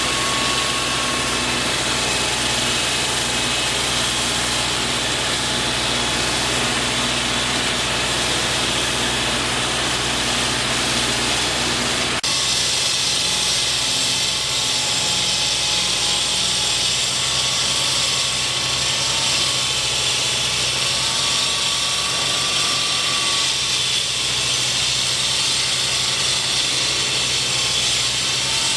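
Steady engine noise, with an abrupt shift in the sound about twelve seconds in.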